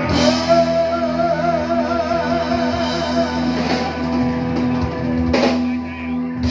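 A live band playing with drum kit and guitar over held chords, with a loud full-band hit at the start and another about five seconds in.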